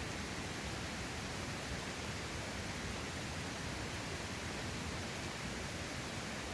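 Mountain stream water rushing in a steady, even hiss with no change.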